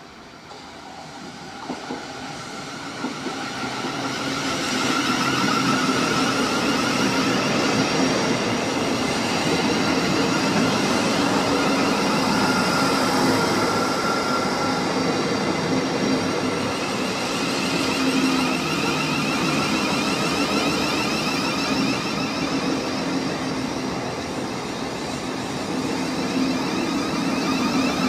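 Thameslink Class 700 Desiro City electric multiple unit approaching and running alongside the platform, growing louder over the first five seconds, then a steady loud mix of rolling wheel noise and a high electric whine. A couple of light clicks from the wheels come early in the approach.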